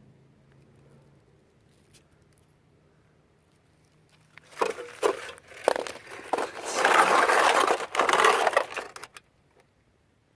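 Scraping and crinkling handling noise, starting about halfway in and growing loud near the end before stopping abruptly, after a quiet start.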